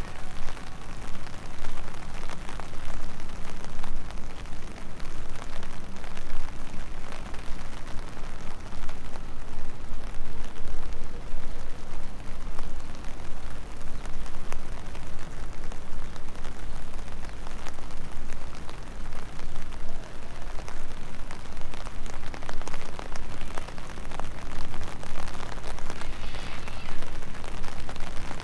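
Steady rain falling, a constant hiss dotted with many sharp, close raindrop hits.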